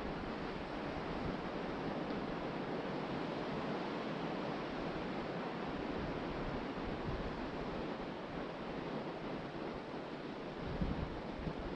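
Ocean surf breaking and washing steadily on the beach, with wind buffeting the microphone in low rumbling gusts, strongest near the end.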